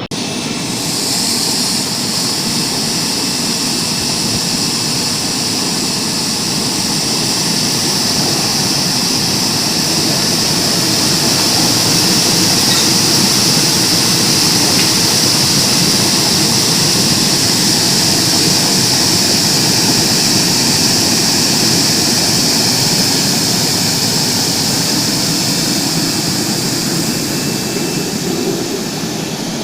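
Industrial bubble washing machine for fruit and vegetables running: a loud, steady rushing hiss of air-agitated water, with a low machine rumble underneath.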